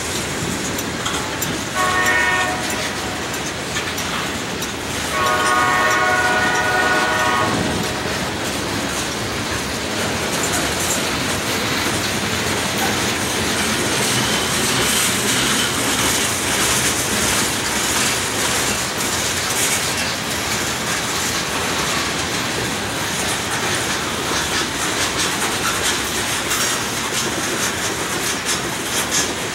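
Freight train of steel coil cars rolling past, wheels clattering over the rail joints. A diesel locomotive horn sounds twice, a short blast about two seconds in and a longer one from about five to seven seconds.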